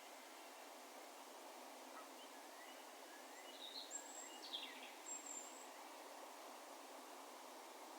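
Steady faint outdoor background hiss over an open field. About midway, a bird gives a few short, high calls, including a falling note.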